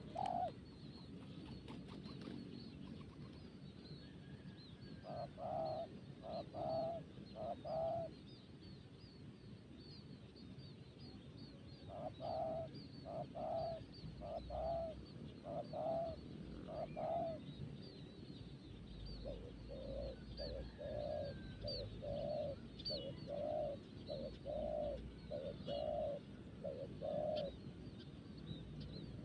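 Zebra dove (perkutut) cooing in three runs of short, low, evenly spaced notes. Faint high chirps repeat throughout.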